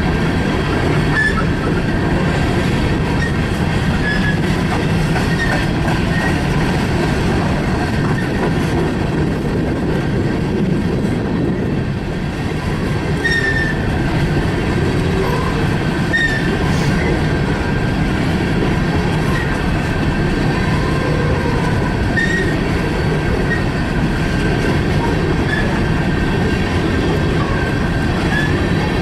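Freight train cars rolling past on the rails: a loud, steady rumble with brief high wheel squeals every few seconds.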